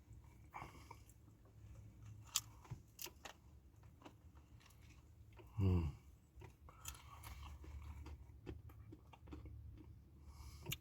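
A man chewing Doritos nachos, with scattered crisp crunches of the chips. A short voiced sound comes about halfway through.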